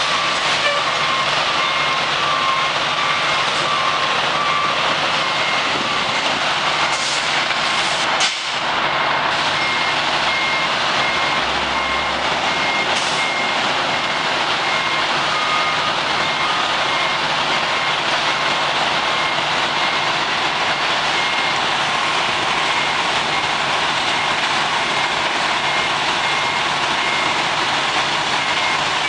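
Backup alarms beeping in even repeats over the steady, dense running of a garbage truck, with a brief hiss about eight seconds in.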